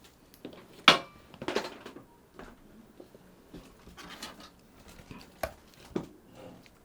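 Sharp clicks and light knocks of small hard objects being handled, the loudest about a second in and two more near the end.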